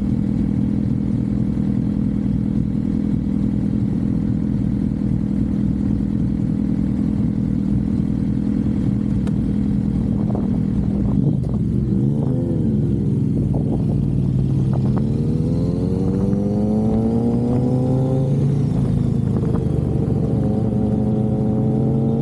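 Suzuki GSX-R sport bike's inline-four engine running at a steady speed while cruising, with wind noise. About halfway through the pitch dips and recovers. It then accelerates with a rising pitch, drops at a gear change about three-quarters in, and climbs again.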